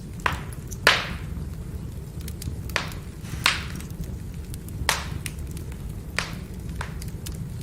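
Firewood burning: a steady low rumble with sharp crackles and pops, about seven of them, the loudest about a second in.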